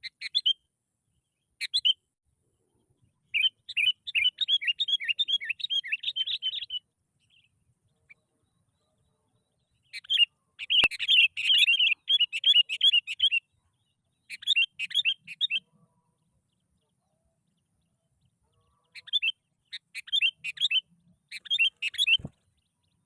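Sooty-headed bulbul (kutilang) singing in bursts of rapid chattering notes: several phrases, the longest about three seconds, separated by silent pauses.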